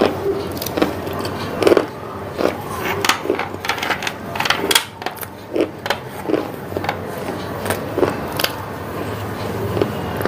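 Close-miked mouth sounds of someone chewing and swallowing: irregular wet clicks and smacks, several a second, thickest in the middle.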